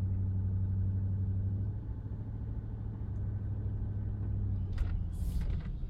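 Truck engine and road noise heard from inside the cab while driving slowly: a steady low drone that eases off slightly about two seconds in.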